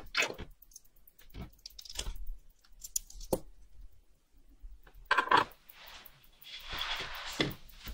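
Watchmaker's bench handling: scattered light clicks and taps of small tools and watch parts, with two short spells of rubbing or scraping, about five seconds in and again around seven seconds.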